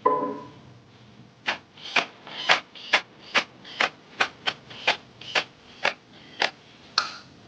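A ratchet wrench being swung back and forth in quick regular strokes, about two a second, each stroke a short burst of ratchet clicks, as bolts are run down during engine reassembly. A single metallic clink with a brief ringing opens it.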